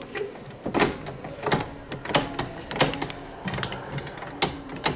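An old tram's General Electric master controller handle being notched on from full series into the parallel positions: about six sharp mechanical clicks, one every half to three-quarters of a second.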